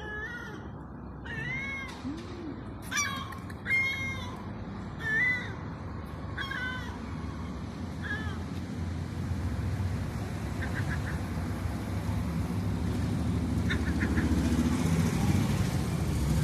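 A seagull calling: a series of about seven short, arched calls in the first half, fading out after about eight seconds. Traffic rumble builds steadily louder through the second half.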